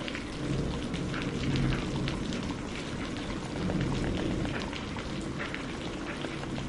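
Steady rain mixed with a crackling wood fire: scattered sharp pops over an even hiss, with a low rumble that swells twice.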